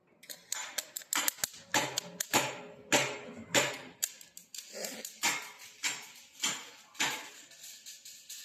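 MIG welder arc crackling in short, irregular bursts, as in stitch or tack welding on car body panels, about two to four bursts a second.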